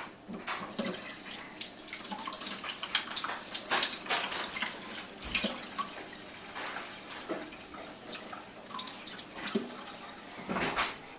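Irregular wet squelches and small clicks of ripe avocado flesh being scooped and handled out of its peel.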